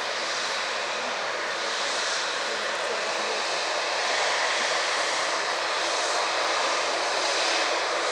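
Airliner's engines passing close by, a steady rushing noise with a faint hum underneath, growing a little louder about halfway through.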